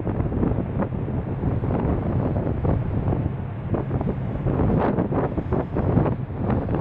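Wind buffeting a camera microphone in uneven gusts, over a steady low drone from a ferry's engines.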